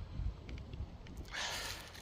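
Low wind rumble on the microphone with scattered light clicks and knocks, and a short burst of hiss about a second and a half in.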